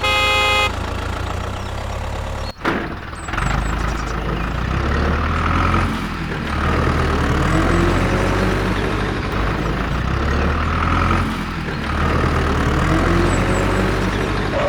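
Short horn toot, then a tractor engine running steadily, its pitch rising and falling every few seconds.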